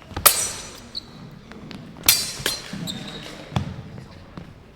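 Steel messers clashing twice during a fencing exchange, each strike ringing with a high metallic tone, the first about a quarter second in and the second about two seconds in. Lighter clicks follow, then a dull thud of a foot stamping on the hall floor.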